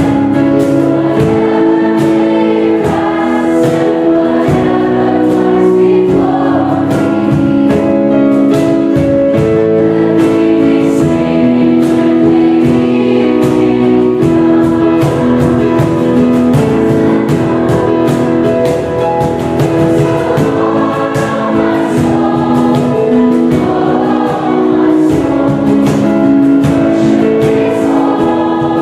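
Choir singing sustained chords of worship music over instrumental accompaniment with a steady beat.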